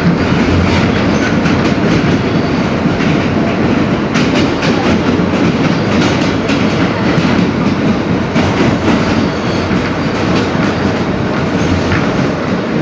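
R160B subway car in motion, heard from inside the car: a steady, loud rumble of wheels on track, with scattered clicks over rail joints.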